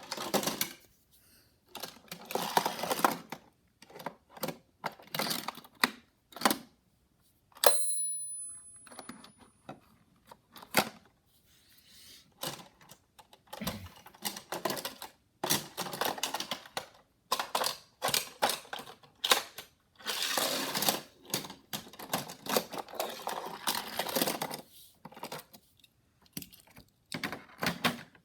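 Hot Wheels die-cast toy cars being handled and played with: irregular clicks and clattering, with one sharp metallic clink about eight seconds in that rings briefly.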